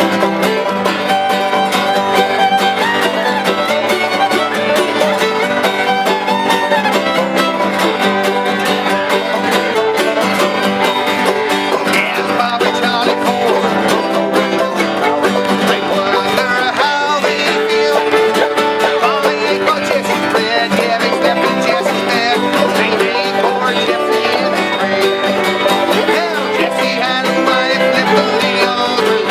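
A bluegrass-style string band playing a lively tune, with banjo, fiddle and guitar.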